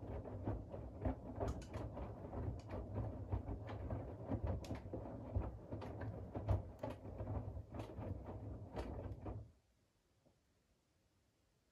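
Siemens iQ700 WG56B2090 front-loading washing machine turning its drum in the wash rhythm: a steady motor hum with laundry and water churning and scattered clicks and knocks. The drum stops suddenly about three-quarters of the way through, then near silence in the pause of the rhythm.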